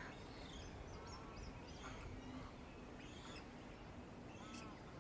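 Birds calling faintly: several short chirps and arching calls scattered through, over quiet background ambience.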